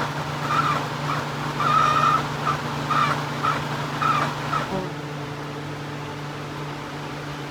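A chicken clucking in short, repeated calls that stop about five seconds in, over the steady hum of a shop fan.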